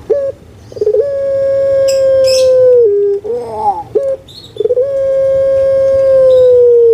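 Puter pelung dove (Barbary dove) giving its long-drawn call twice. Each call opens with a few short stuttering notes, then holds one long, loud coo that sags slightly in pitch and drops to a brief lower note at the end. Short falling notes sound between the two calls.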